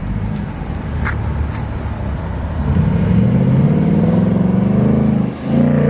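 Car engine accelerating: from about halfway it grows louder and its note slowly rises for a couple of seconds. A single sharp crack about a second in.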